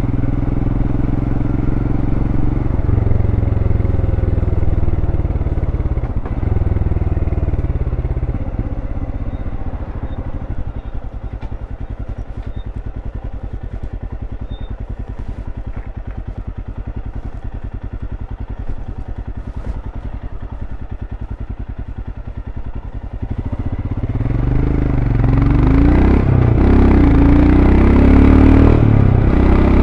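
Royal Enfield Scram 411's single-cylinder engine through its stock exhaust: running under way at first, then dropping to a steady, evenly pulsing idle for about fifteen seconds, then revving up and pulling away about 24 seconds in, rising in pitch as it accelerates.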